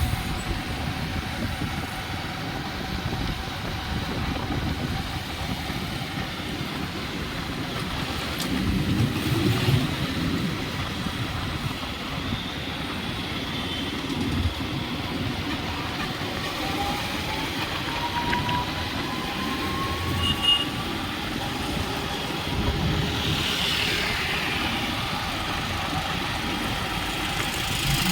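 Steady vehicle running noise with a low rumble, and a faint rising whine about two thirds of the way through.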